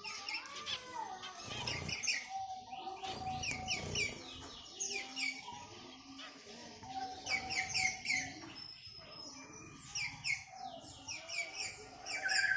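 Caged birds chirping in many quick series of short high notes, with a few lower drawn-out notes held beneath them.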